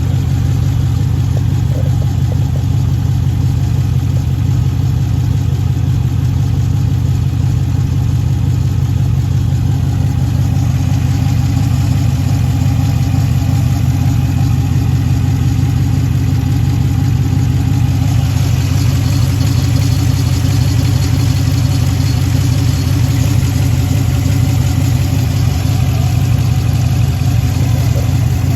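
2013 Jeep Grand Cherokee engine idling at the exhaust with a cylinder 5 misfire, a steady low pulsing beat; the owner puts the misfire down to a bad lifter and camshaft, with cylinder 5's fuel not burning completely. A brighter hiss joins about two-thirds of the way through.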